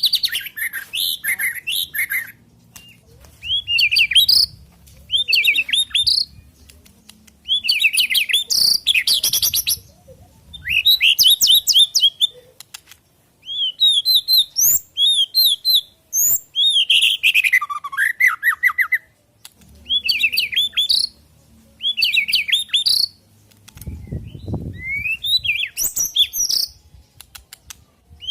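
White-rumped shama singing: loud bursts of fast, varied whistles and chattering notes, each phrase a second or two long with short pauses between. A brief low rumble comes about three-quarters of the way through.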